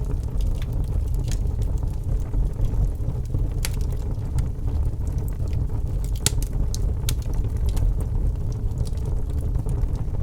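Wood fire burning in a fireplace: scattered sharp crackles and pops over a steady low rumble, the loudest pops a little past halfway.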